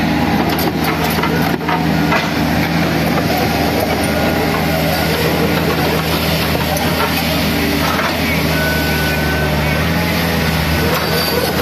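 A large engine running steadily at a constant pace.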